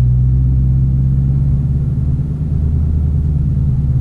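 2017 Dodge Challenger Hellcat's supercharged V8 running steadily at low speed, a deep, even engine note with no revving.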